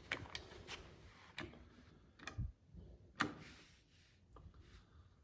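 A series of irregular sharp clicks and taps, several close together at first and then sparser, with the loudest a little past three seconds.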